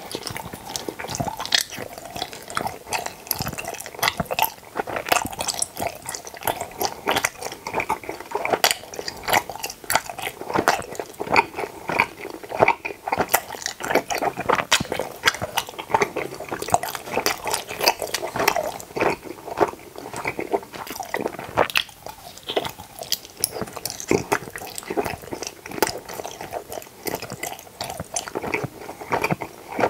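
Close-up chewing of tooth-shaped gummy jelly candy: a dense, irregular stream of short mouth clicks and smacks, several a second.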